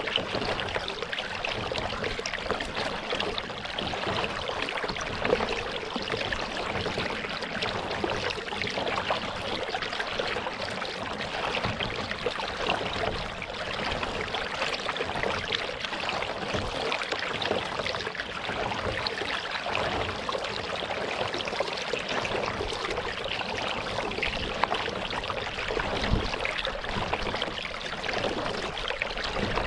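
Lake water splashing and trickling around a kayak as it is paddled: a steady wash of small splashes and drips, with no pause.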